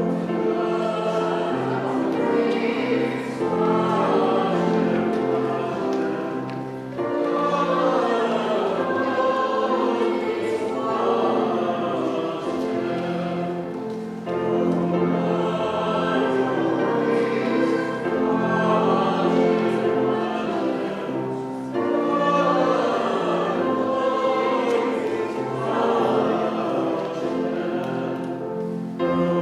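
Many voices singing a hymn together in held chords, in phrases that break about every seven or eight seconds.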